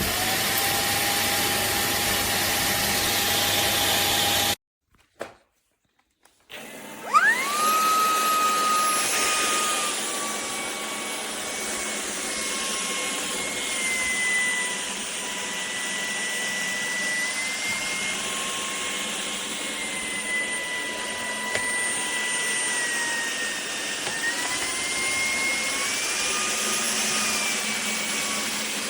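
Shark Detect Clean & Empty vacuum motor running, cutting out about four and a half seconds in. About two seconds later it starts again with a rising whine that settles into a steady run, its pitch shifting slightly up and down now and then.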